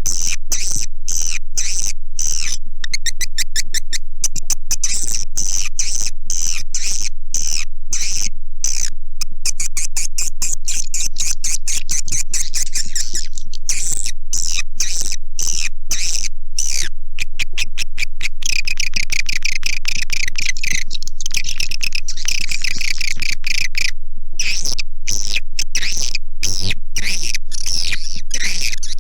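Swiftlet call recording, of the kind played in swiftlet houses to lure edible-nest swiftlets: a dense, unbroken stream of rapid, high chirping twitters at a constant, loud level.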